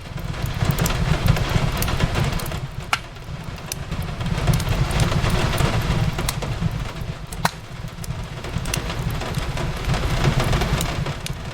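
Wood fire crackling in a fireplace, with scattered sharp pops, over steady rain and a low rumble.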